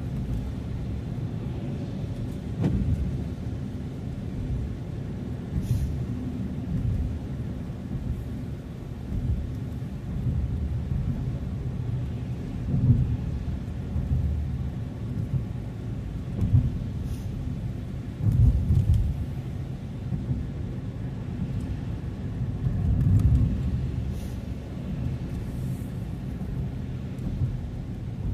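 Car driving on the road: a steady low rumble of tyres and engine, with several brief louder low surges, the strongest about 13, 18 and 23 seconds in.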